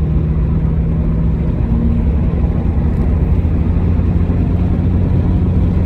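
A car running with a steady low hum and no change in pitch.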